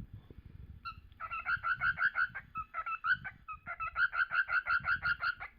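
Male cockatiel singing: fast runs of short repeated chirping notes, about eight a second, starting about a second in, with two brief breaks.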